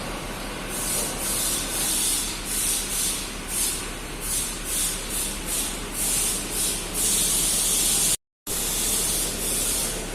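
A series of short, high hissing strokes, about one or two a second and uneven in length, like rubbing or spraying, over a steady low hum. The sound cuts out briefly near the end.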